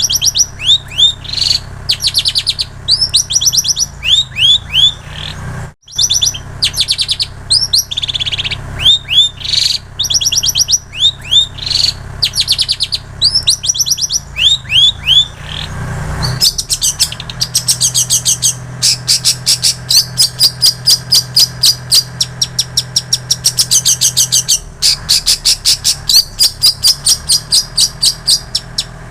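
Long-tailed shrike singing a song filled with mimicked prinia and canary phrases. First come short phrases of repeated curved whistled notes, with a brief gap at about six seconds. From about the middle it switches to a fast, continuous run of rapid chattering notes. A low steady hum runs underneath.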